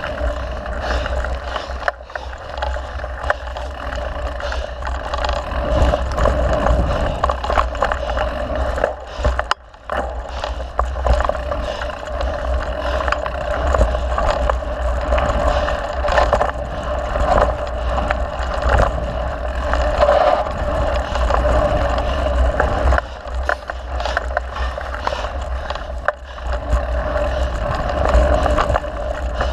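Mountain bike rolling along a dirt trail, heard from a camera mounted on the bike or rider: a steady low rumble with frequent knocks and rattles over bumps.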